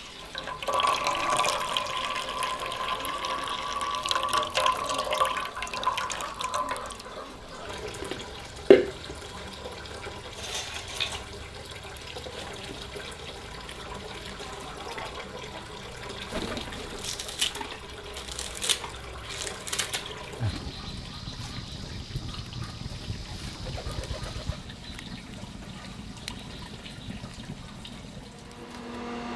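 Running water splashing, as from a tap into a basin, with scattered clatter and one sharp knock about nine seconds in.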